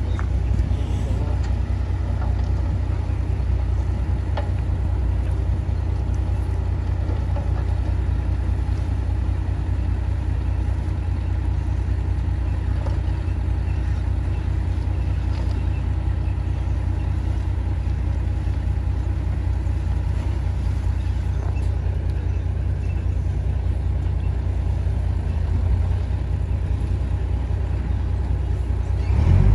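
Heavy diesel earthmoving machinery running steadily, a deep continuous engine rumble with faint knocks and clanks on top.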